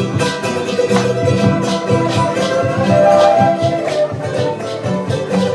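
Live Latin American folk music played on strummed and plucked string instruments, the charango among them, with a steady strummed rhythm.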